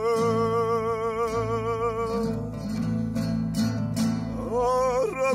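A singer holds the last note of a line with a wide vibrato over a plucked-string accompaniment; the voice stops about two seconds in, the strings play on alone, and singing starts again near the end.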